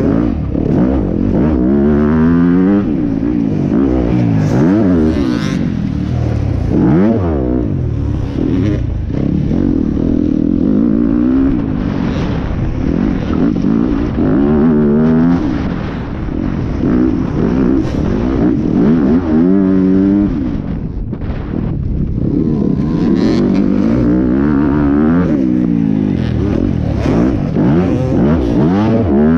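Yamaha enduro motorcycle engine, heard close from the rider's helmet, revving up and dropping back again and again as the throttle is worked and gears change over a race course. The revs fall off briefly partway through, then climb again.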